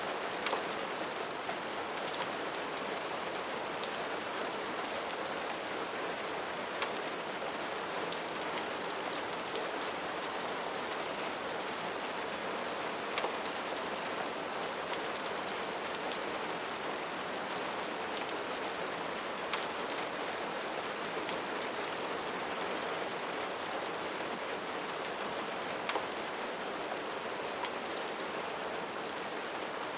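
Steady rain falling on a surface: an even, continuous patter with a few faint ticks scattered through it.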